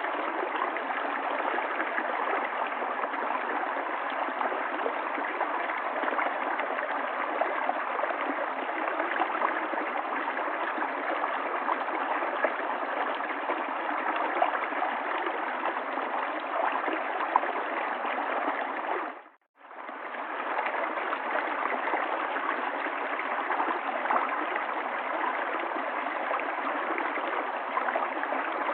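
River water flowing in a steady, even rush and babble. About two-thirds of the way through it fades out to silence for a moment and comes straight back.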